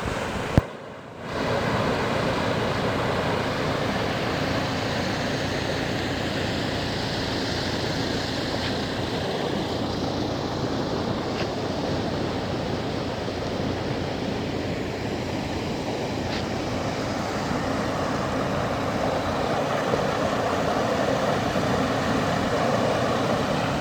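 Heavy rain pouring down in a steady, dense rush. A sharp click about half a second in is followed by a momentary dropout.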